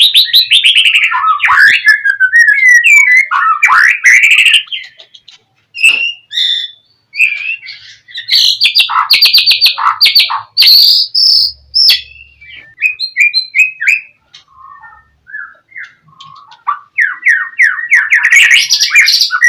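A songbird singing a loud, varied song: fast runs of repeated falling whistled notes at the start and again near the end, with assorted chirps and short phrases between, broken by two brief pauses about five seconds in and in the last third.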